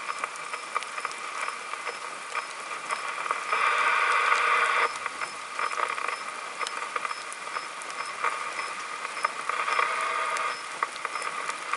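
Rain from a thunderstorm falling on a car, heard from inside: a steady hiss scattered with sharp drop ticks. Two stretches of louder hiss come about four and ten seconds in.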